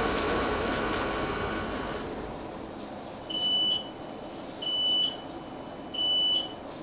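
Class 458 train's running noise dying away as it comes to a stand, then three high electronic beeps about a second and a quarter apart: the train's door warning signal at the station stop.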